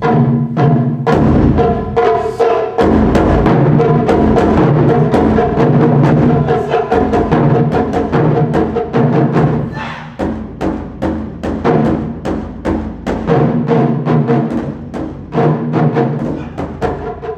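Japanese taiko drums played in a fast, dense rhythm of heavy strokes, with a sustained pitched melody line over the drumming. In the second half the strokes come lighter and more evenly spaced.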